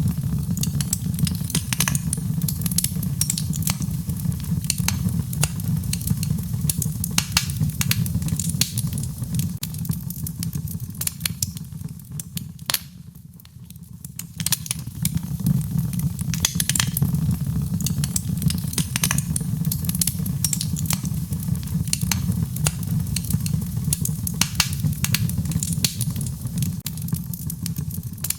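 Wood fire in a fireplace crackling, with many scattered sharp pops and snaps over a steady low rumble, mixed with rain. The sound dips briefly about halfway through, then comes back.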